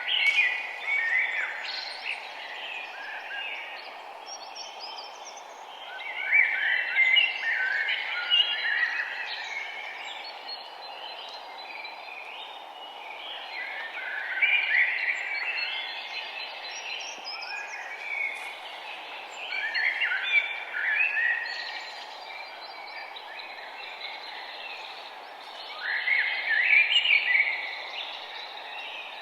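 Songbird singing short phrases of chirps and warbles, one burst of song roughly every six seconds, over a steady background hiss of outdoor ambience.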